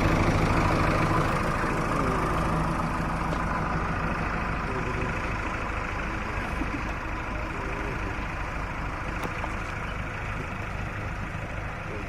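Heavy engine idling steadily, getting gradually quieter over the stretch.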